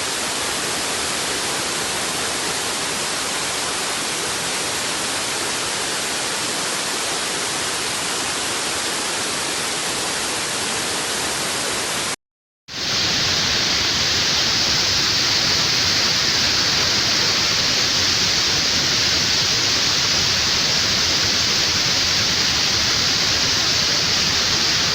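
Waterfall: a steady rush of falling water. About halfway it cuts out for half a second, then comes back a little louder and hissier.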